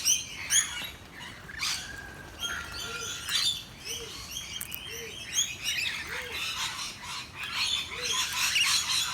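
Birds chirping: many short, high chirps and twitters, with a soft low call repeated about once a second from about three seconds in.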